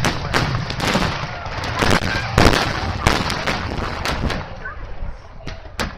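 Aerial firework shells bursting in quick succession, many booms a second trailing into echo, easing briefly near the end before another burst.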